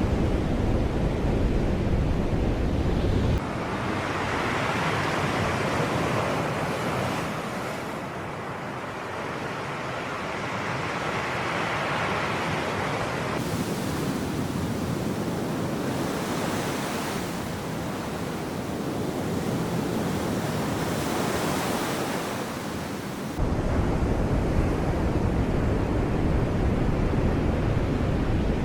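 Sea waves breaking and washing on the shore in slow swells, with a low wind rumble on the microphone that drops out about three seconds in and comes back suddenly near the end.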